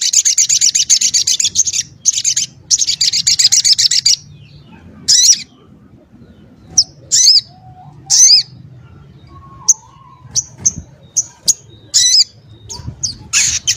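Sogok ontong singing: two rapid, high twittering trills of about two seconds each, then a run of short, sharp single chirps, and a further trill starting near the end.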